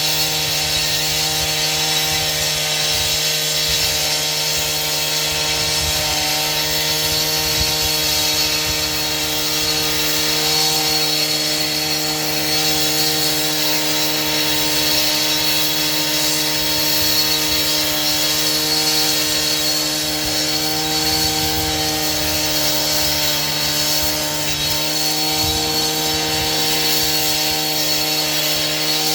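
Power saw running at a steady speed through a long cut, an even motor whine over a harsh cutting hiss with no change in pitch.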